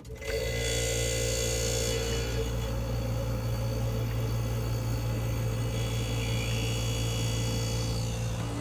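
Frigidaire dehumidifier's Tecumseh reciprocating compressor starting up: it kicks in suddenly and settles into a steady loud hum, with a higher whine over the first couple of seconds.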